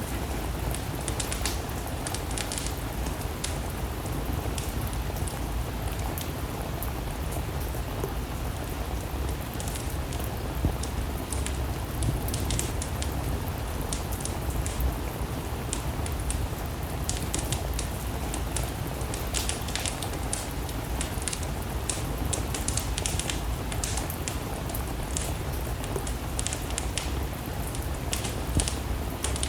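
Steady rain together with a wood fire crackling: an even hiss over a low rumble, with frequent short sharp crackles.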